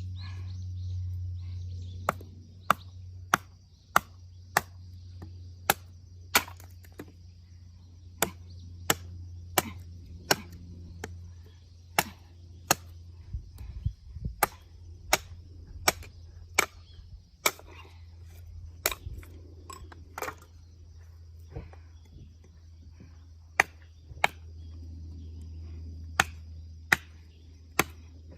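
Firewood being split by hand: a long run of sharp wooden knocks, roughly one or two a second, broken by a few short pauses. A steady low hum runs underneath.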